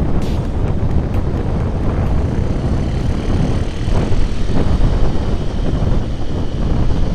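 Motorcycle running at road speed with heavy wind rushing over the microphone: a loud, steady low rumble.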